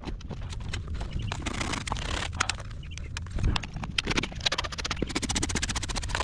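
Farrier work on a horse's hoof: scraping with many sharp clicks, turning into a fast, dense run of clicks about three-quarters of the way through.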